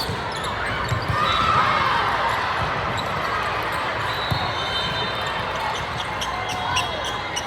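Basketball game in a gym: a ball bouncing on the court, sneakers squeaking in short glides, and spectators' voices in an echoing hall.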